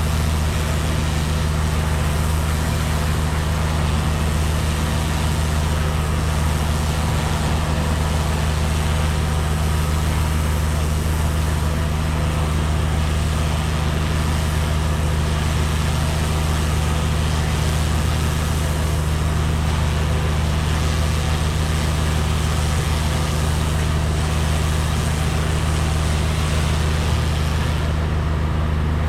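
Pressure washer running steadily: a constant engine hum under the hiss of the water jet from a turbo nozzle blasting moss off roof tiles.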